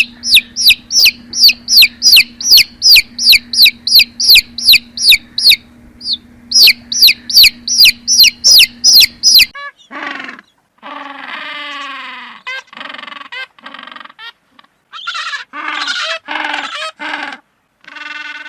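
Animal calls: a regular run of high, falling chirps, about three a second, for some nine seconds, then a string of shorter, lower calls with pauses between them.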